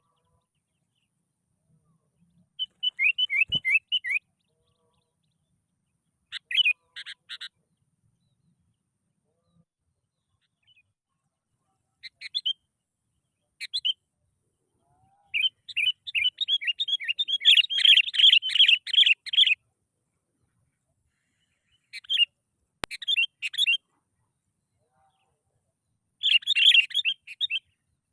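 Sooty-headed bulbul (kutilang) song: about six short phrases of quick, bubbly chirping notes separated by pauses, with a longer, louder run of rapid chirps in the middle.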